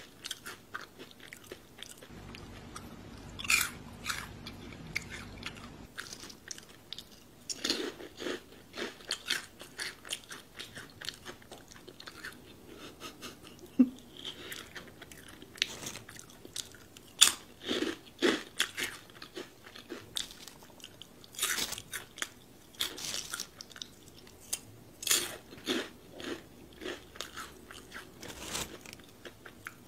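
A person biting and chewing crispy snack foods: repeated crunches and chewing, sparse for a few seconds near the start, then coming thick and fast.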